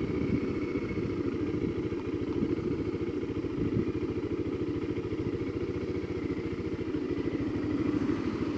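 Motorcycle engine idling steadily with an even, regular pulse while stopped at a level crossing.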